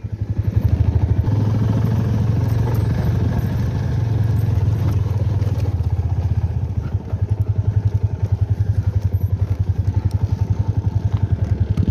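Motorcycle engine running at low revs with a steady pulsing chug, easing off briefly about seven seconds in before picking up again.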